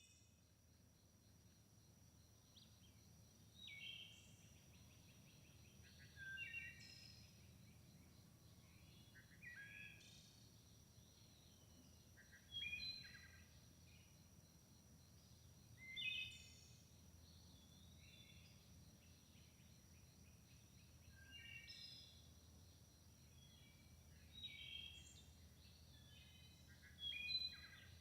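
Wood thrush singing: short, flute-like, trilled phrases, one every three seconds or so, faint against a low steady background rumble.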